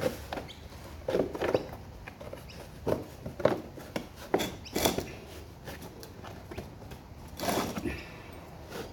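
Irregular knocks, taps and scrapes of hand-tool work on a lawn mower, spread unevenly with short quiet gaps between them.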